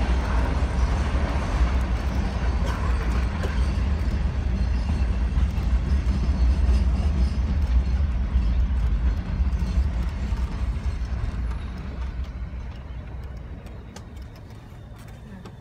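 Nilgiri Mountain Railway toy train running on the track, heard from the carriage: a steady low rumble with rattling that dies away over the last few seconds as the train slows into the station.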